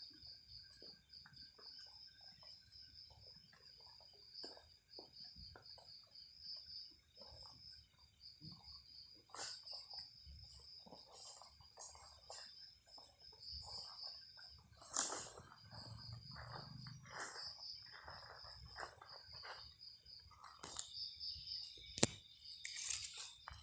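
Night insects chirping steadily in a fast, high, pulsing trill, with scattered rustles and light knocks. The rustles get busier after the middle, with a sharp click about 22 seconds in and a louder rustling near the end.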